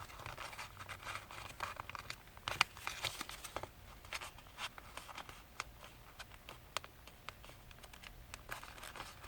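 Paper rustling and crinkling in the hands as a many-layered sheet is flipped over and curved into a fold, with light scattered crackles and one sharper crackle a few seconds in.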